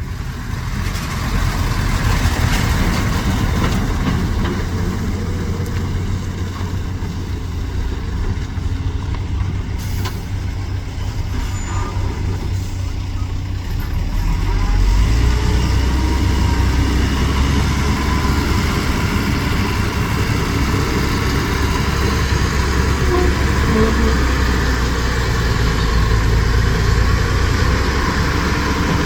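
Heavy dump truck's engine running with a deep, steady rumble that grows louder about halfway through.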